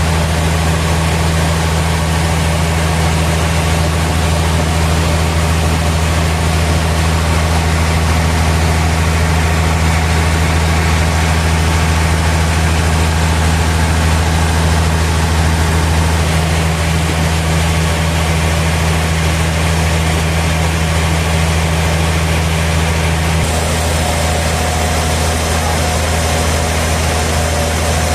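Sawmill machinery running steadily with a deep, even hum. The sound shifts slightly about three-quarters of the way through, when a higher tone joins in.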